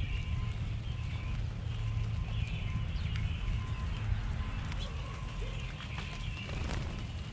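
Backyard birds chirping faintly over a steady low rumble, with a few light clicks.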